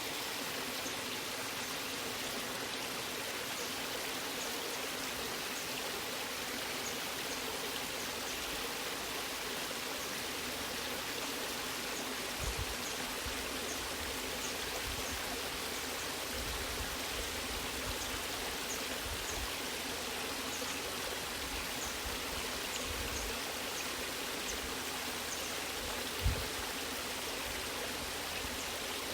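Waterfall: steady rushing, splashing water. A brief low thump sounds about halfway and a sharper one near the end.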